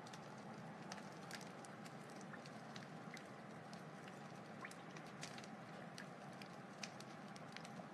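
Wood fire crackling softly: irregular sharp pops and snaps over a low steady hiss, with a faint steady hum underneath.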